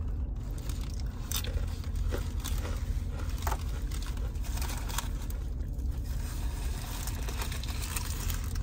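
Someone chewing food up close, with scattered small clicks and the crinkle of a food wrapper, over a steady low hum.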